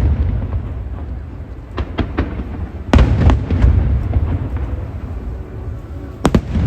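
Aerial fireworks bursting: a few quick cracks about two seconds in, a loud bang about three seconds in, and two more bangs near the end, over a continuous low rumble of booms.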